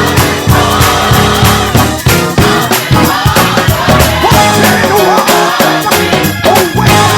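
Upbeat gospel band music: drum kit beating steadily under bass, organ and keys, with horn and guitar parts on top.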